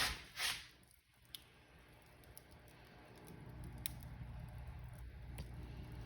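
Wood fire crackling in a fireplace: two short hissing bursts at the start, then a low steady rumble broken by a few sharp pops.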